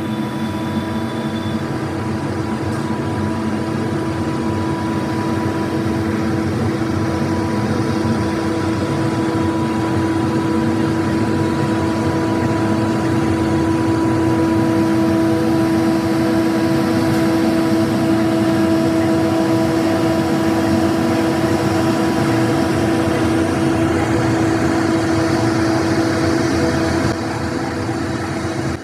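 Truck-mounted road sweeper running: a steady machine drone with a constant humming note over a noisy rush, swelling slightly in the middle and easing a little near the end.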